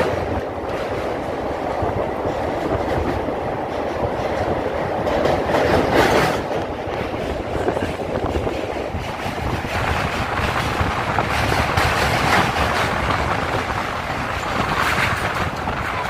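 Passenger train running steadily across a steel truss bridge, heard from an open coach window: a continuous rumble of wheels on rails with a clatter of many small clicks.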